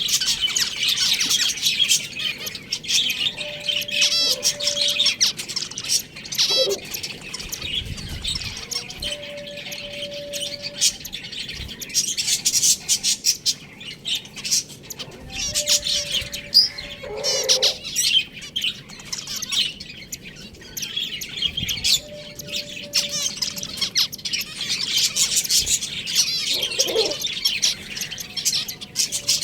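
A flock of small cage birds chirping and chattering without pause, with a few short, lower calls about every ten seconds and a faint steady tone that comes back about every six seconds.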